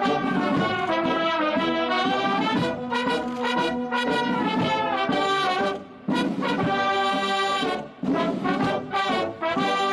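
Military brass band playing, held chords and sustained notes with short breaks between phrases.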